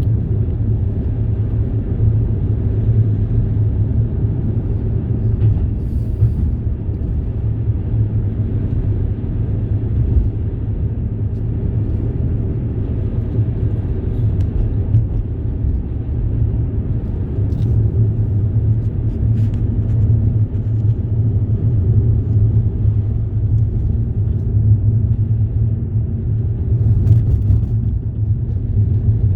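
Steady low rumble of a moving vehicle, running evenly with no change in pitch or speed.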